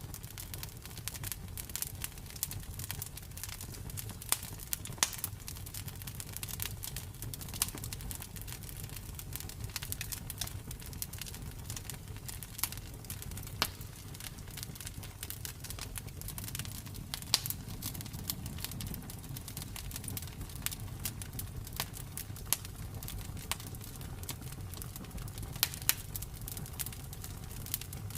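Campfire crackling: a steady low rumble of burning wood with frequent sharp pops and snaps at irregular intervals, a few louder than the rest.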